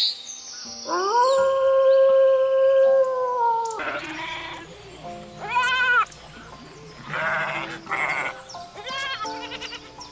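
A wolf howl, one long steady call that starts about a second in and lasts nearly three seconds, followed by several short, quavering bleats. Soft background music with held notes plays underneath.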